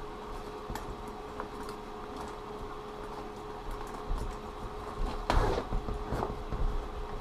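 Small clicks and rustling of items being handled and pulled from a bag pouch, with a louder rustle about five seconds in, over a steady hum.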